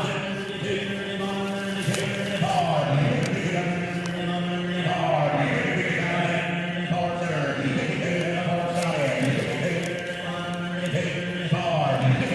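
Auctioneer's bid-calling chant: a continuous sing-song stream of rapid numbers on long, held, pitched tones with no pauses.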